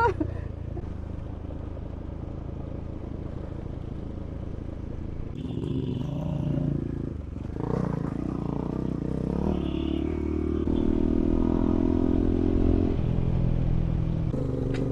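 Adventure motorcycle engine running as the bike rides a rough dirt track, with some clatter from the trail. It runs low and even at first, then the engine note rises and falls from about five seconds in and holds louder and steady for a few seconds near the end.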